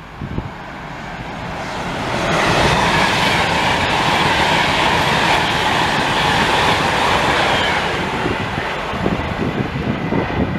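A train passing through the station: wheel and rail noise builds about two seconds in, holds loud for several seconds, then eases off. Wind buffets the microphone near the end.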